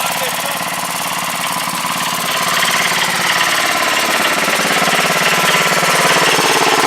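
Sears Suburban garden tractor's small engine running with a rapid, even chugging, getting louder about two and a half seconds in.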